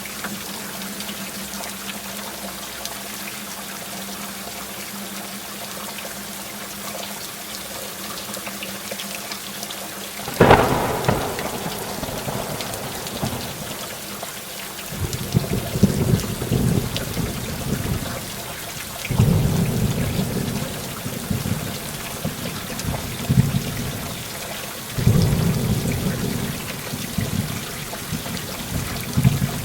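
Heavy rain falling steadily through a thunderstorm. A sharp thunderclap cracks about a third of the way in, and rolls of rumbling thunder follow three or four times after it.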